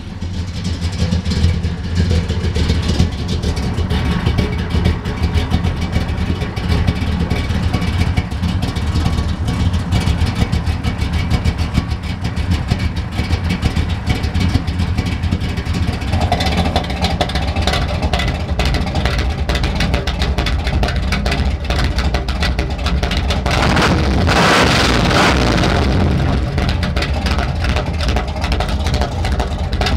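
Chevrolet 396 big-block V8 of a 1970 Chevelle SS L34 running at idle, heard from under the car beside the exhaust pipes. About three-quarters of the way through it gets louder and rougher for two or three seconds.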